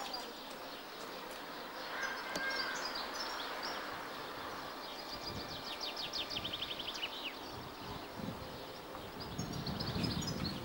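Small birds chirping, with one fast trill in the middle, over a steady hiss. Low rumbling comes in near the end.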